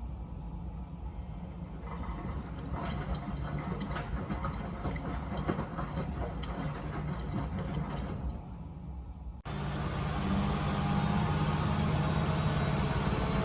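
Miele W Classic front-loading washing machine mid-cycle: the drum turns the wet laundry with crackling, sloshing water sounds. About nine seconds in, a louder steady rushing noise with a low hum starts abruptly.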